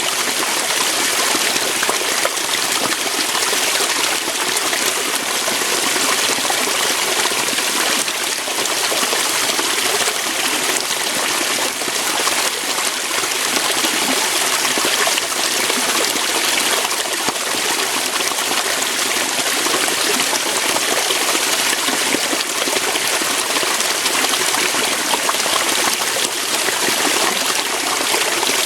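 Waterfall: water flowing and falling over rocks in a steady, even splashing.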